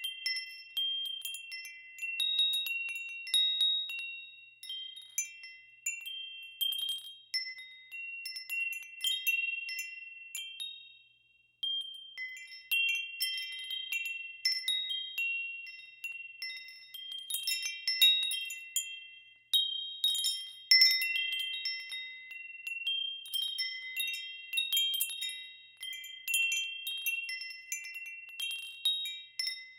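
Wind chimes ringing in irregular clusters of high, clear notes that overlap and ring on. They die away almost to silence about eleven seconds in, then pick up again.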